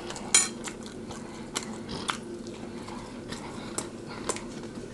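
Close-miked chewing with the mouth closed: wet smacks and mouth clicks scattered through, the sharpest about a third of a second in.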